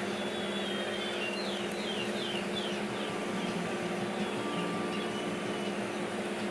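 Quail giving a quick run of about six short, high chirps that fall in pitch, starting about a second in, over a steady low machine hum.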